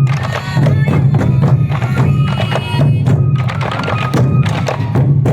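Sansa odori festival music: many taiko drums beaten together in a dense, steady rhythm, with bamboo flutes playing a high melody over them.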